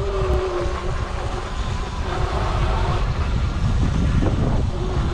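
Heavy wind buffeting on the microphone over a low rumble from riding an electric dirt bike along a sandy trail, with a faint electric-motor whine that drifts up and down in pitch.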